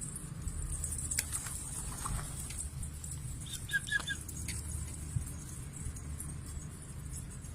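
Scattered light taps and clicks over a steady low hum, with three quick high bird chirps about halfway through.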